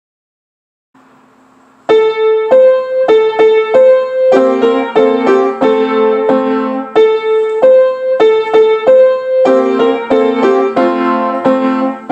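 Piano playing a simple children's song, a melody over lower accompanying notes, starting about two seconds in after a brief near-silence.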